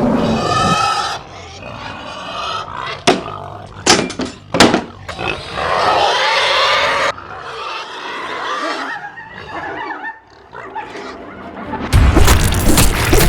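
Animal call sound effects, pitched calls of the kind PANN files under Roar, together with several sharp knocks around the middle and background music.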